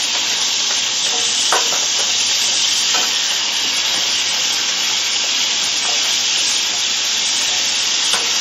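Lobster tail, beef, onion and tofu frying in a nonstick pan: a steady sizzle as they are stirred with a slotted plastic spatula, with a few light clicks of the spatula against the pan.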